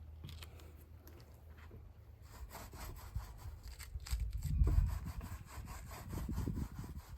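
Repeated rubbing strokes against the wooden shell of a kick drum, starting about two seconds in, as fibreglass coating is worked onto the inside of the shell. A low boom from the shell comes about halfway through.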